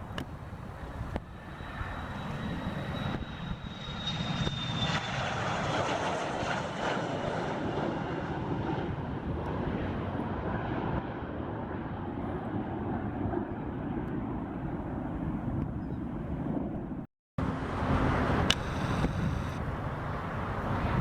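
Airplane engines running as a plane goes by at the airport: a steady broad rush, with a faint high whine gliding down in pitch in the first few seconds. The sound breaks off for a split second about 17 seconds in, then carries on.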